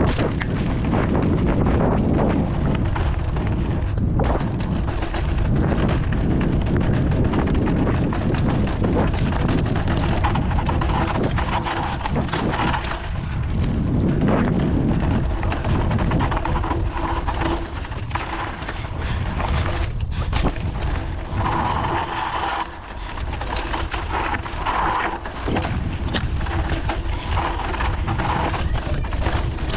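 A mountain bike riding a rough downhill dirt trail: constant wind rumble on the microphone, with the bike rattling and knocking over bumps the whole way.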